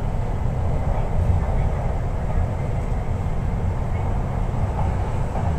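Interior running noise of an MTR East Rail Line R-train electric multiple unit: a steady low rumble from wheels on rail and the car body, with no sudden events.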